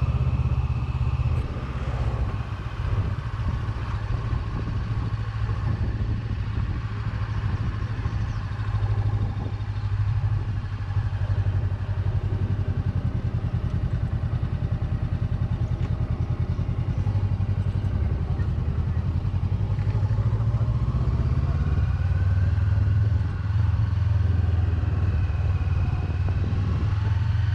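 Steady low drone of a vehicle driving on the road, engine and tyre noise heard from inside the moving vehicle.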